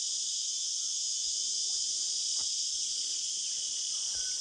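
Forest insects keeping up a steady, high-pitched chorus.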